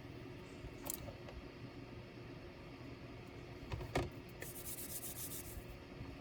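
Handling noises from an ASUS K3605Z laptop being taken apart: a sharp click about a second in and a louder one near four seconds, followed by a short scraping rustle, over a steady low hum.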